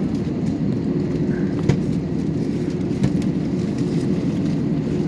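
Steady rumbling drone of an Airbus A321-200 heard inside the cabin as it moves on the ground, with two sharp knocks, the second about a second after the first.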